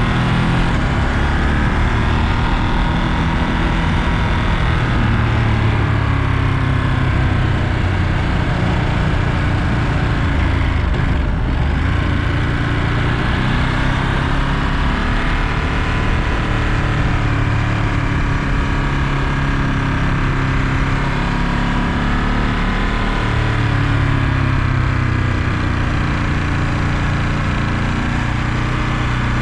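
Ducati Monster 937's 937 cc L-twin engine running under way, its pitch rising and falling again and again as the throttle opens and closes through the gears.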